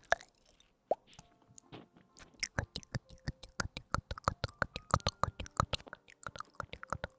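Close-miked ASMR crackling and clicking, sparse for the first two seconds, then a dense run of quick crackles at several a second.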